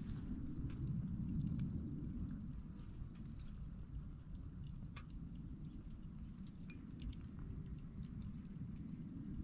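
Wood campfire crackling: scattered sharp pops and snaps over a low, steady rumble of the burning fire.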